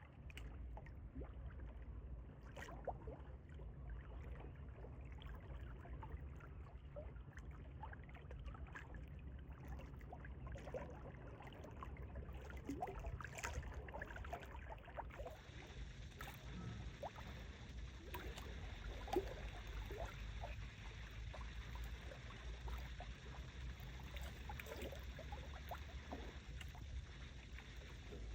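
Strong wind rumbling on the microphone, with small waves lapping and splashing at the lake shore.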